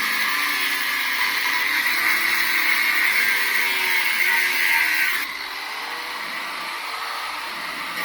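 Corded power cutting tool, likely an angle grinder, cutting into the steel casing of a refrigerator compressor: a steady high whine with grinding noise. About five seconds in it eases off and runs more quietly.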